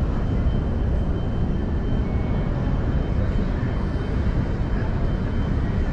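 Steady low rumble with a faint high whine from a passenger train standing at an underground station platform.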